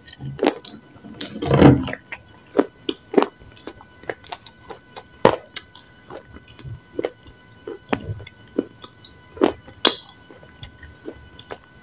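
Close-miked biting and chewing of a pressed white chalky powder, with irregular sharp crunches a few times a second. A longer, louder crunch comes about a second and a half in.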